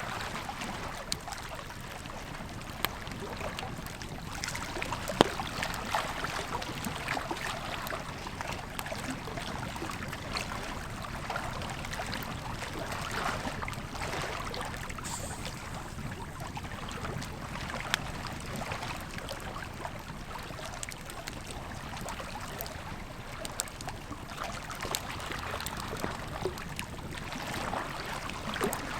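Campfire wood crackling, with scattered sharp pops, the loudest about five seconds in and again near the middle, over the steady rushing of a river.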